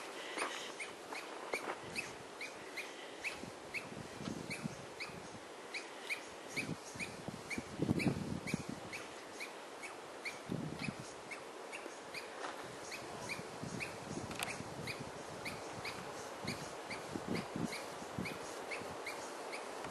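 A bird chirping over and over at an even pace, about two to three short chirps a second. A few low rumbles of wind on the microphone come and go, the loudest about eight seconds in.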